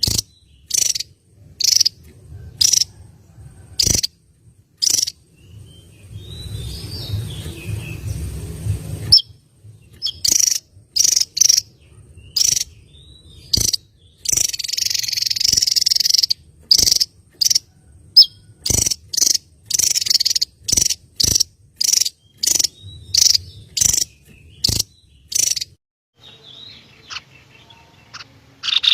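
Recorded songbird calls: a fast series of short, sharp, high-pitched chips, about two a second, broken by a harsh rattling stretch about six seconds in and a buzzy one around the middle.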